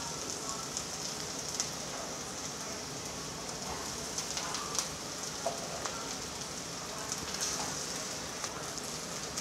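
Sliced onions frying in oil in a kadai: a steady sizzle with scattered small crackles.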